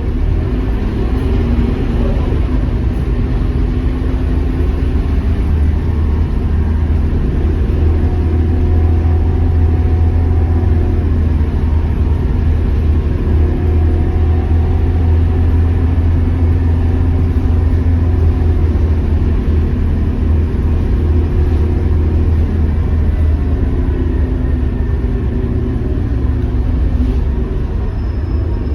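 Scania K230UB city bus running along the road: its diesel engine gives a steady low drone, with the engine note rising and falling a little as the bus accelerates and eases off.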